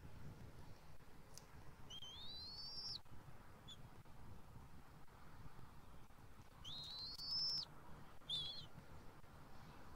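A bird giving two high-pitched whistled calls, each about a second long, that rise and then hold. The second is followed by a short note.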